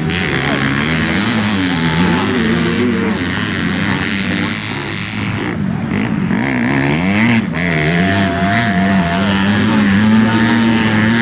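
Motocross bike engines revving as the riders race around the track, the pitch rising and falling over and over as they throttle on and off.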